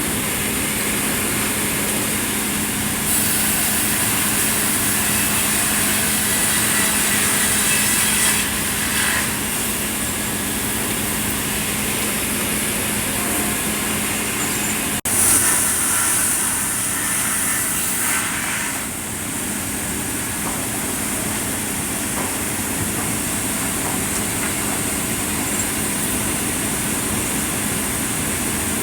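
Sawmill saws running and cutting red pine, a steady loud machine noise with a high hiss that shifts as the wood feeds through, broken by a sudden jump about halfway.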